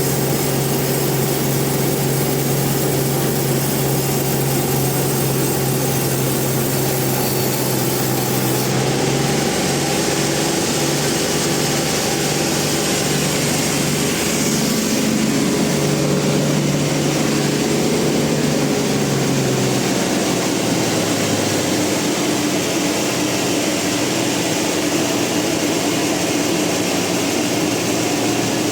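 Industrial band sawmill running with a steady mechanical drone. Its hum shifts in pitch about nine seconds in and again about twenty seconds in.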